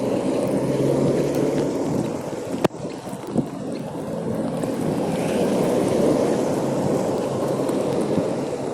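Steady rushing noise of wind buffeting the phone's microphone, with one sharp click a little under three seconds in.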